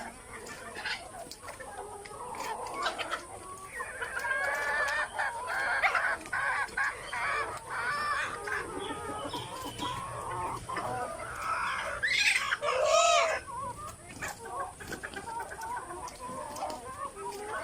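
Native (desi) chickens clucking steadily, many calls overlapping, with scattered sharp ticks. A louder, longer call stands out about twelve seconds in.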